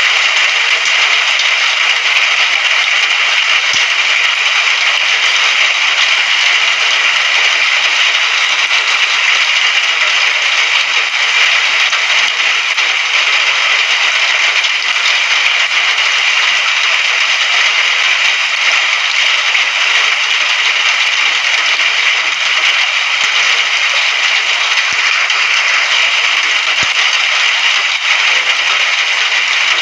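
Steady rain falling, a dense, even hiss that does not change.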